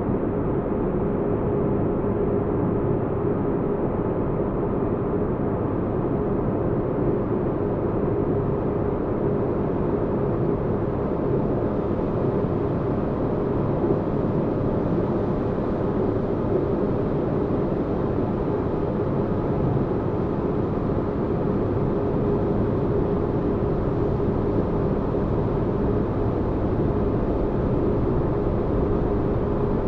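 Steady low spaceship-interior ambience: a deep, even rumbling noise with a faint constant hum, unchanging throughout.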